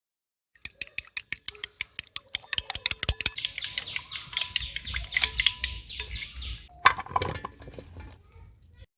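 A rapid run of sharp taps or clicks, about five a second, growing denser and busier, with one louder knock about seven seconds in.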